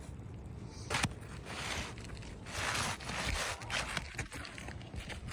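Asphalt roof shingles scraping and rustling against each other as they are worked by hand, in uneven rough strokes, with a sharp click about a second in.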